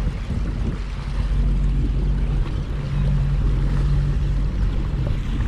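Watercraft engine running steadily with an even hum, under wind and water noise.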